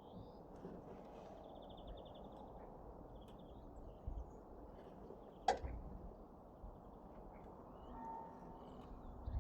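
Small birds chirping faintly, with a short trill about two seconds in, over low outdoor background noise. There is a single sharp knock about five and a half seconds in, and a faint steady low hum comes in near the end. No tractor engine is running.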